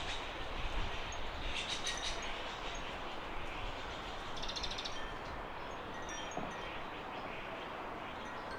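Small garden birds chirping over a steady background hiss, with two quick high trills, one about a second and a half in and another about four and a half seconds in, and a few short high calls near the end.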